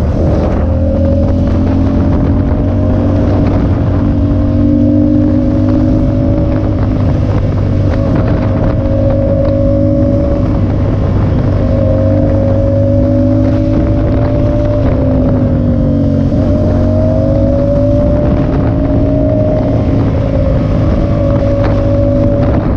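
Motorcycle engine running steadily at cruising speed, its pitch drifting gently up and down with a brief dip about fifteen seconds in, with wind rushing over the microphone.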